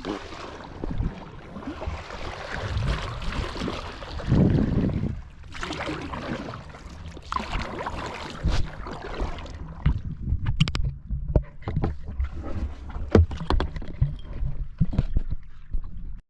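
Water rushing and splashing around a kayak on open sea, with low wind rumble on the microphone. For the first ten seconds it is a steady rush. After that it thins to scattered sharp splashes and knocks.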